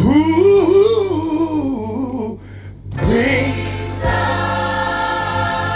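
Gospel choir singing with a lead voice running a melismatic line, a brief drop about two and a half seconds in, then a held chord.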